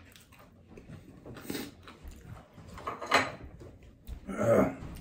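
Close-miked eating sounds of a man chewing a mouthful of food, with three louder mouth noises about a second and a half, three and four and a half seconds in.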